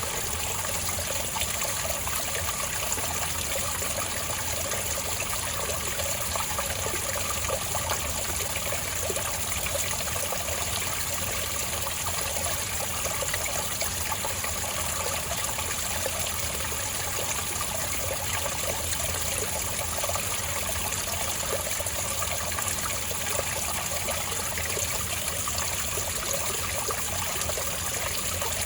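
Spring water trickling and bubbling steadily over rocks, a gentle, even flow without pause.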